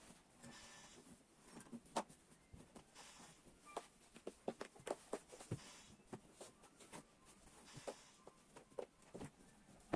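Faint, irregular clicks and light taps from objects being handled, with soft swishing between them.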